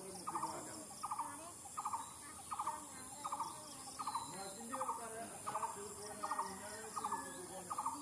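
A bird repeating a short stuttering call, each call a quick run of three or four pulses, evenly about every three-quarters of a second, with fainter wavering bird calls underneath.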